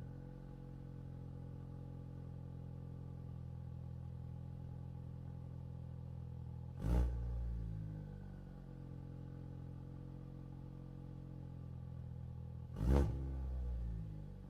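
Ford Focus RS with a Precision turbo and a 3.5-inch turbo-back exhaust with a Vibrant muffler, idling steadily and blipped twice, about six seconds apart. Each rev rises sharply and falls quickly back to idle.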